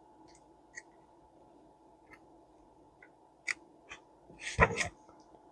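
Paper handling: scattered soft rustles and small clicks as schematic sheets are leafed through, with a louder rustle and a dull knock about four and a half seconds in.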